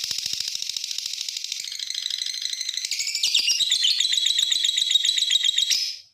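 Lovebird's long chattering call (ngekek panjang): a rapid, unbroken string of shrill notes that changes tone about three seconds in and cuts off suddenly near the end.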